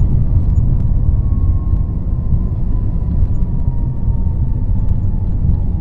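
Steady low rumble of an airliner heard from inside its cabin on the ground after landing, with a faint engine whine slowly falling in pitch.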